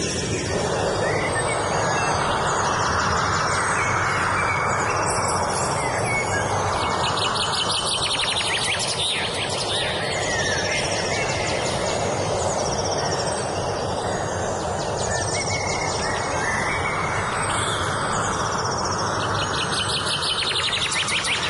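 Several songbirds singing, with repeated fast trills and chirps, over a steady loud background noise.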